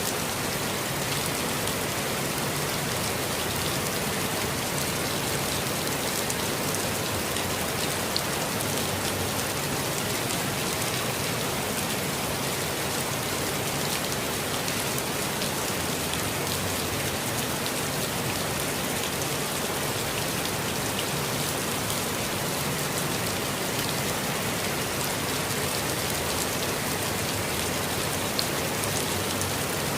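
Steady rainfall in a forest, an even hiss of rain with individual drops pattering on surfaces, and a few slightly louder single drops here and there.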